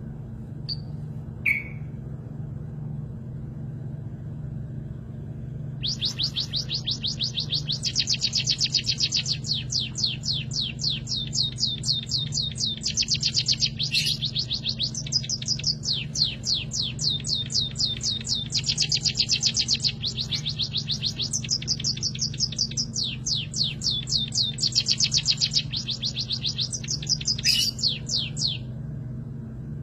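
A small pet finch (burung pipit) singing a long, fast canary-like trill of rapidly repeated high notes in several phrases with short breaks, after a few single chirps. A steady low hum runs underneath.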